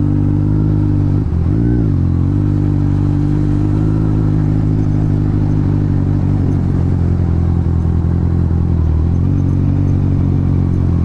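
Motorcycle engine running steadily at cruising speed, its pitch briefly dipping and climbing back about a second and a half in, then shifting slightly again near the end.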